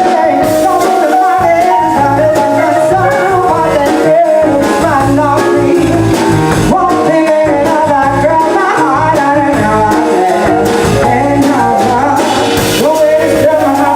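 Live band playing a soul-pop song: a singer over electric keyboard, bass guitar and drums.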